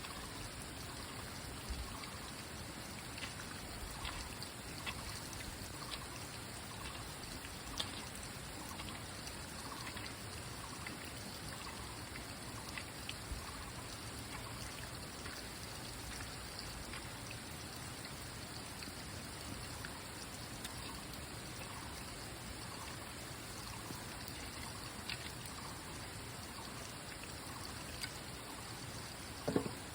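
Steady running water trickling, with scattered small drips and ticks, and one louder knock near the end.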